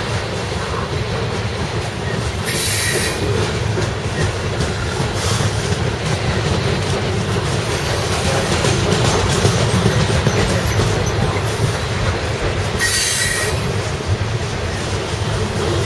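Ore train cars rolling past: a steady rumble of steel wheels on rail, with short high-pitched wheel squeals about two and a half seconds in and again near the end.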